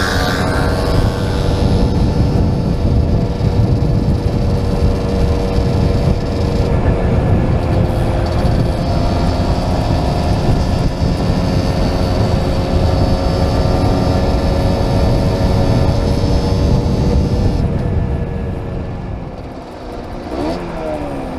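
Small classic motorcycle engine running at steady speed under heavy wind rumble on a helmet camera. It eases off near the end, then revs briefly with a quick rise and fall in pitch.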